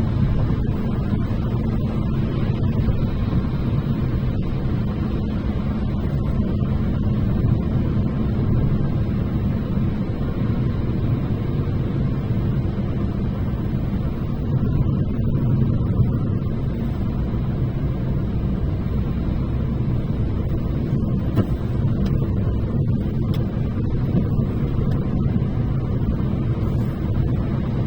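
Steady low rumble of a car being driven: road and engine noise heard from inside the cabin.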